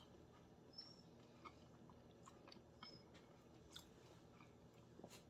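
Near silence with faint, scattered wet clicks of someone chewing smoked chicken wings.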